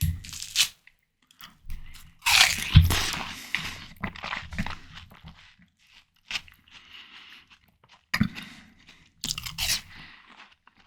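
Close-miked bites into ripe watermelon, each a juicy crunch followed by wet chewing. The loudest bite comes about two seconds in, with further bites at intervals.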